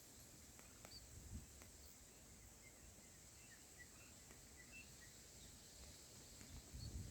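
Near silence: faint outdoor ambience with a steady high hiss and a few faint, short, high chirps from small birds in the middle. There are low rumbles about a second in and again near the end.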